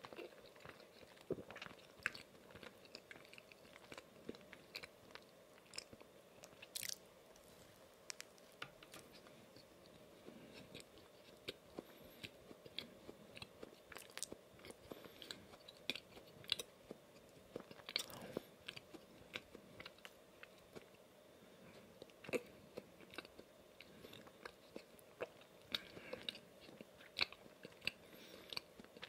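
Close-miked biting and chewing of donuts coated in chocolate cookie crumbs, with many small, irregular crunching clicks.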